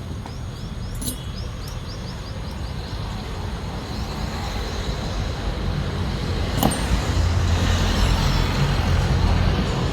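A motor vehicle's engine rumbling, growing steadily louder over the last half, with a sharp click about a second in and another near seven seconds.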